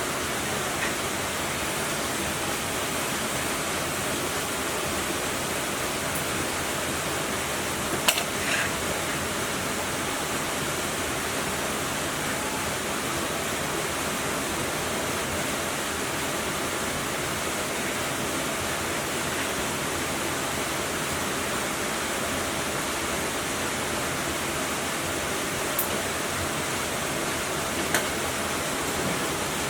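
Steady, even rushing hiss throughout, with a few short sharp clicks about eight seconds in and near the end.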